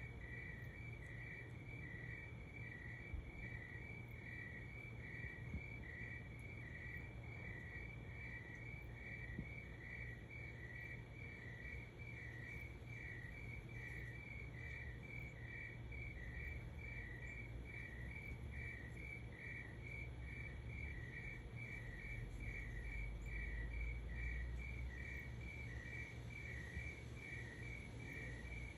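Crickets chirping in steady, evenly spaced pulses over a low steady rumble.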